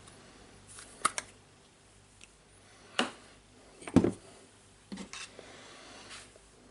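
A new jar of Makita grease being opened by hand: a few separate clicks and knocks of the lid and jar being handled, the loudest about four seconds in.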